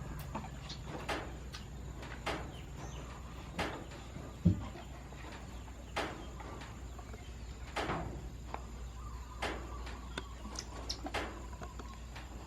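A series of sharp clicks or taps, roughly one every second or so, over a steady low hum, with one louder short thump about four and a half seconds in.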